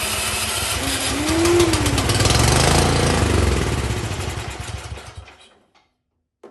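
Cub Cadet snowblower's single-cylinder engine running on primer fuel, then slowing and sputtering out about five seconds in. It dies because fuel isn't reaching the cylinder, which the owner takes for the cause.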